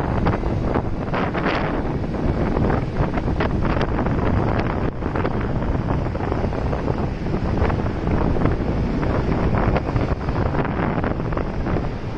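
Wind buffeting the microphone on a moving motorcycle, a loud, steady rush with constant gusts, over the low rumble of the ride.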